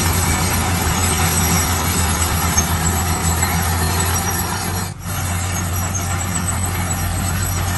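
Heavy diesel construction machinery running steadily with a deep engine hum and a noisy mechanical clatter over it. The sound briefly drops out about five seconds in.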